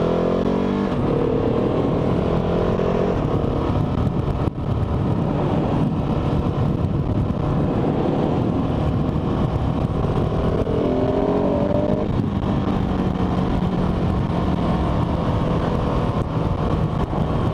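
Motorcycle engine accelerating from the rider's mic. Its pitch climbs in the first second and again about ten seconds in, then holds steady, under a constant rush of wind and road noise.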